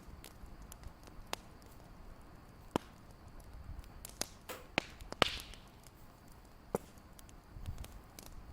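Fireplace crackling: irregular sharp pops and faint ticks over a low rumble, the loudest pop about five seconds in.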